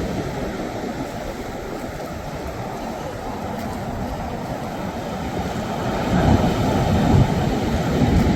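Sea waves breaking and washing on the shore, with wind buffeting the microphone; a wave surges in louder about six seconds in.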